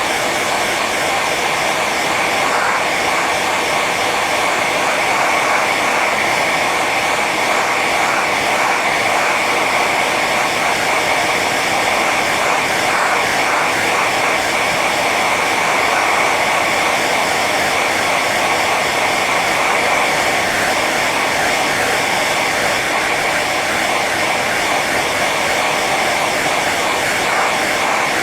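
Hair dryer running steadily on its high setting: a constant blowing rush with a steady whine running through it.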